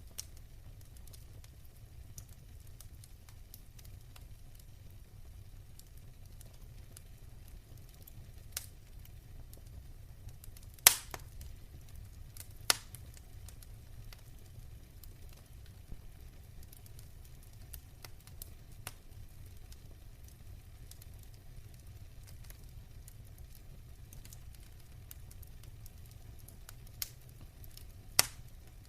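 Fireplace fire crackling, with a low steady rumble and scattered small ticks broken by a few sharp pops, the loudest about eleven seconds in and another near the end.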